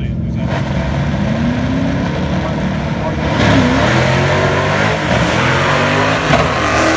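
Drag race car at full throttle down the strip, engine pitch climbing, with a gear change about three and a half seconds in, after which it gets louder and climbs again.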